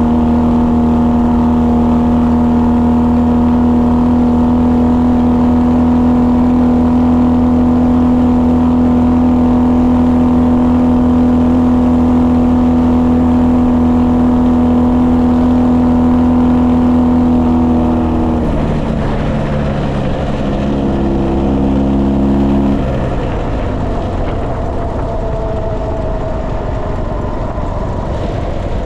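Ural motorcycle's boxer-twin engine running at a steady speed for about eighteen seconds. Its note then drops in steps and gives way to a rushing wind and road noise.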